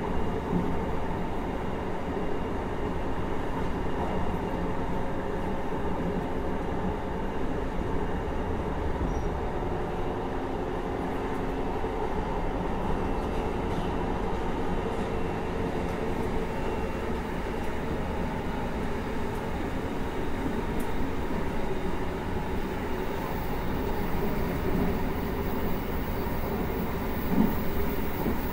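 Running sound of a JR Hokkaido 733 series 3000 subseries electric train, heard from inside the car as it travels at a steady pace: an even rumble of wheels on rail with a faint steady hum. A single short bump stands out near the end.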